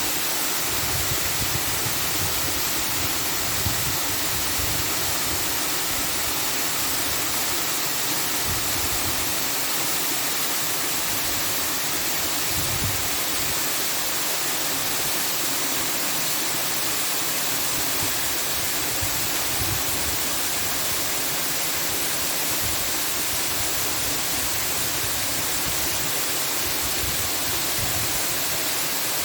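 A steady, even rushing noise, like falling or flowing water, with no breaks or changes.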